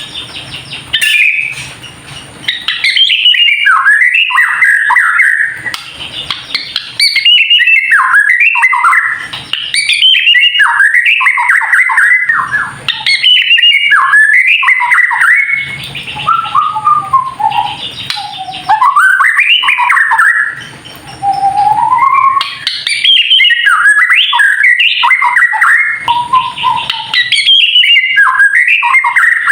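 White-rumped shama (murai batu) singing in loud bursts of rapid, varied warbling phrases, each about two to three seconds long with short pauses between them, and slower, lower whistled glides in the middle stretch. This is the fast 'kretekan' song used to provoke rival shamas into singing.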